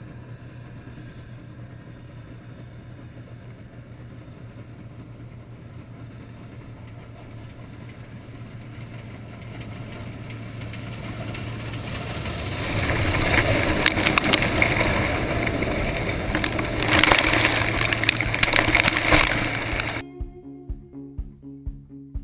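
Harvesting machinery, most likely a combine, running with a steady engine hum. About halfway through it grows louder into a noisy rush full of sharp crackles, then cuts off abruptly near the end, where slide-guitar music starts.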